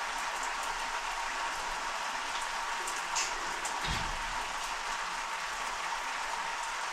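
Water spraying steadily from a shower head and splashing down, with a brief low thump about four seconds in.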